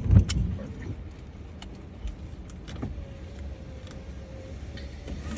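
Car's electric window motor whining steadily for about a second and a half, over a low cabin rumble. It follows a dull thump in the first half-second.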